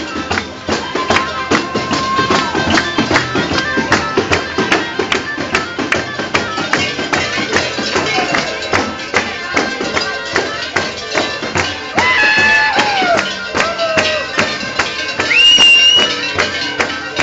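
Live traditional Cilento folk music: a tambourine beats a fast, even rhythm of about three strokes a second under wavering voices or pipes, with loud held notes about twelve and fifteen seconds in.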